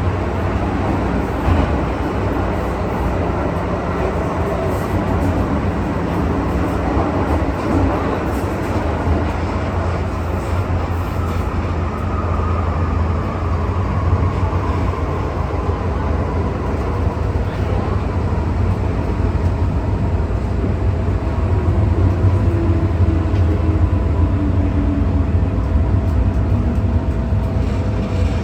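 MTR M-Train metro train running between stations: a steady low rumble from the wheels and running gear. A thin whine from the drive glides down in pitch around the middle and again near the end.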